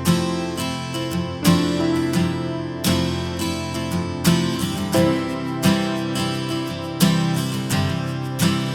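Background music: acoustic guitar strumming chords in a steady rhythm, about one strum a second or faster.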